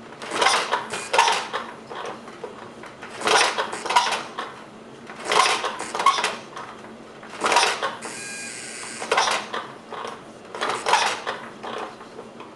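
Replica of Henry Ford's kitchen sink engine clattering in short bursts of sharp metallic knocks, a cluster about every two seconds, as it is tried for its first start. A brief steady buzz comes about eight seconds in.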